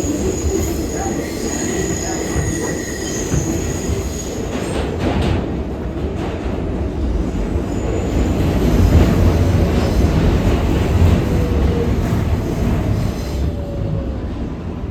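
R188 subway train running, its wheels squealing with thin high tones for the first few seconds, then a steady low rumble of the cars rolling along the rails, heaviest around the middle and easing near the end.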